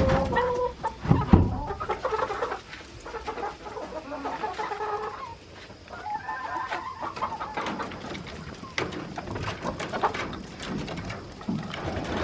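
Chickens clucking with short, broken calls, mixed with scattered knocks and scrapes.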